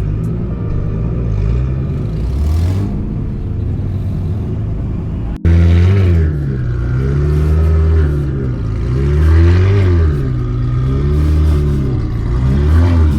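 Car engine and exhaust revving, its pitch rising and falling again and again, with a sudden break about five seconds in.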